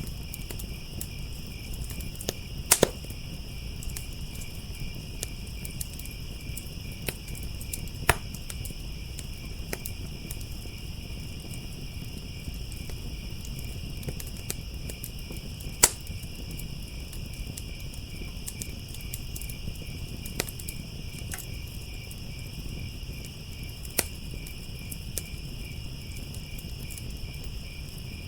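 Crickets chirping in a steady, continuous trill, with a wood fire crackling and popping now and then; the loudest pops come about 3, 8, 16 and 24 seconds in.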